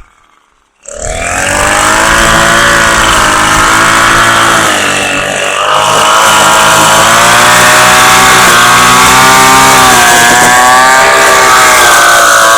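Southland wheeled string trimmer's small gasoline engine running at high speed. It comes in about a second in, and its pitch wavers, dipping briefly around five seconds in.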